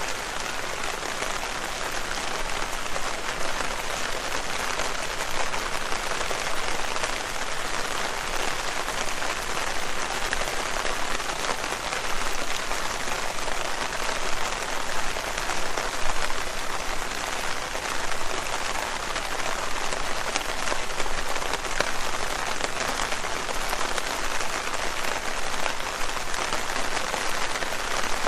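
Steady rain with many small drops pattering on leaves.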